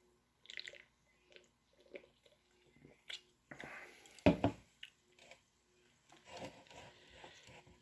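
Mouth sounds of someone sipping and swallowing a canned energy drink: small lip smacks and clicks, with one louder knock about four seconds in.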